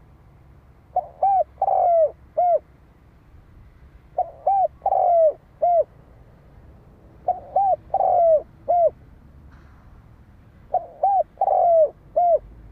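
Spotted dove cooing: four repeated phrases about three seconds apart, each two short coos, a longer falling coo and a final short coo.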